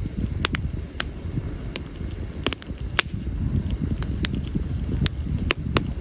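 Wood fire crackling: sharp pops and snaps at irregular intervals, about two a second, over a steady low rumble.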